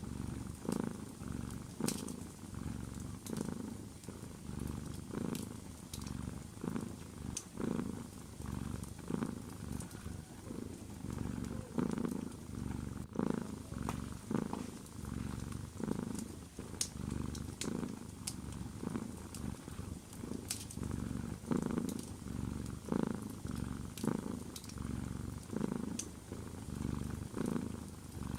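Domestic cat purring steadily, a low rumble that swells and fades with each breath, with sparse sharp crackles from a wood fire.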